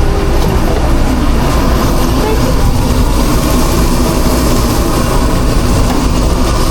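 Food truck kitchen machinery running with a steady, loud, low drone.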